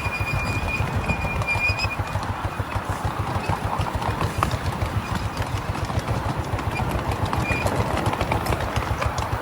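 Miniature railway train running along the track with a fast, even clatter of low knocks, and a thin high squeal in the first two seconds.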